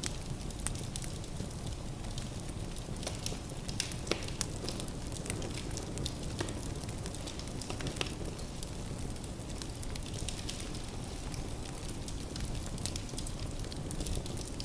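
Firewood burning in a fireplace: a steady low rumble of the flames with frequent sharp pops and crackles scattered irregularly throughout.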